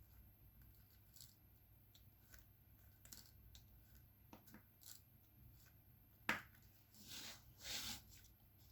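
Faint, scattered small clicks and taps of diamond painting work, a drill pen setting drills onto the canvas, with one sharper click about six seconds in followed by two short rustles.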